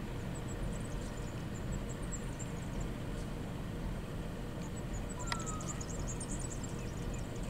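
Diesel-electric locomotive hauling a loaded coal train, a steady low rumble as it approaches. Faint high chirping above it, and a single sharp click about five seconds in.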